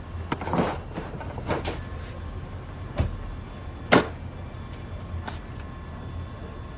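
Scattered knocks and clunks, the loudest about four seconds in, over a steady low hum.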